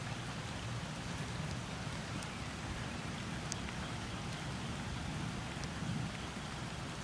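Steady rain falling in a thunderstorm, an even hiss with a few sharp drop ticks now and then.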